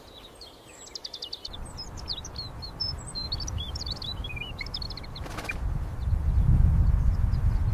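Small birds chirping and twittering in quick, high notes through the first four or so seconds, over a low rumble that starts about a second and a half in and grows louder near the end. A short burst of noise comes about five seconds in.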